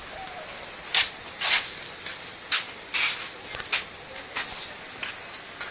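A series of short, irregular scraping and clattering noises, about eight in a few seconds, from handling the sheet-metal parts of a gutted microwave.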